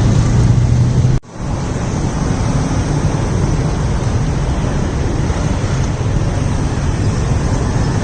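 Steady outdoor background roar with no clear single source, broken by a brief dropout about a second in.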